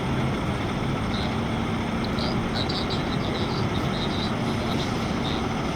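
Steady low rumble of vehicle noise with a faint engine-like hum in the first couple of seconds.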